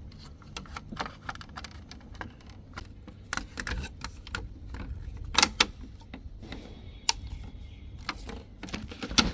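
Irregular plastic clicks and knocks as a washing machine's main control board is handled and fitted into its front panel, with a louder knock about five seconds in and another near the end.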